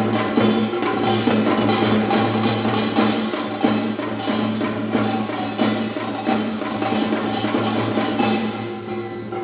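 Korean traditional ensemble playing: rapid hand-drum strokes and bright metallic strikes over sustained reed-pipe tones. The bright strikes thin out near the end.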